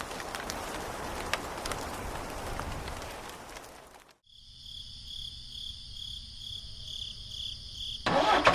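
A rustling noise with small clicks, which cuts off about four seconds in. Then comes a steady high pulsing chirp like crickets or insects, about two or three pulses a second. A loud burst of mechanical noise starts near the end.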